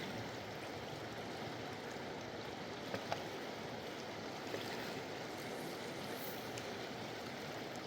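Steady rushing of a fast-flowing mountain river, with a few faint ticks about three seconds in.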